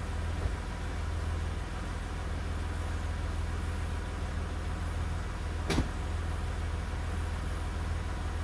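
2001 Mercedes-Benz ML320's 3.2-litre V6 idling steadily a few minutes after a cold start, still warming up. One sharp click about two-thirds of the way through.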